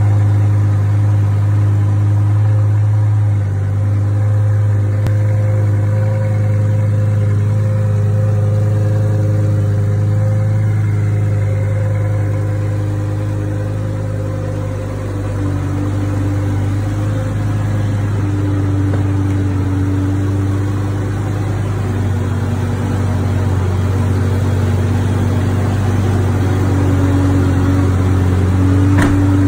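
A Lamborghini Gallardo's engine idling steadily, with a strong even low hum. A brief knock comes near the end.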